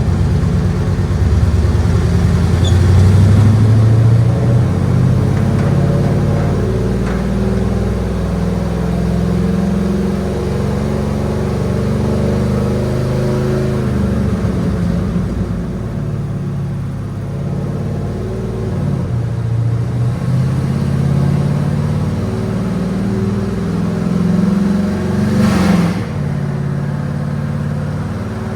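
Loud 5.3-litre V8 of a GMC Sierra pickup running on headers, its low note wavering up and down with light revs. A brief rush of hissing noise comes near the end.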